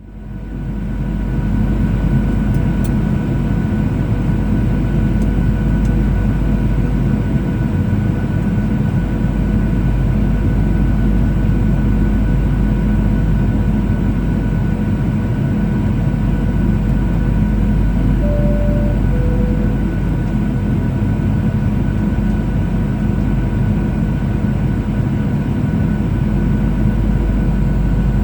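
Steady cabin noise of a Boeing 737-800, engine drone with thin steady whining tones, fading in at the start. About eighteen seconds in, a two-note falling cabin chime sounds.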